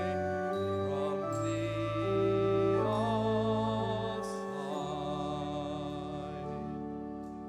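Organ playing a slow hymn in long, held chords, with voices singing along; it grows a little softer near the end.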